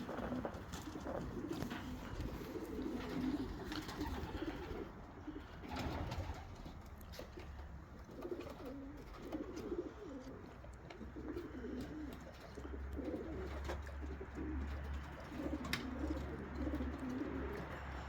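Racing homer pigeons cooing, phrase after phrase of soft rolling coos, with a few light clicks among them.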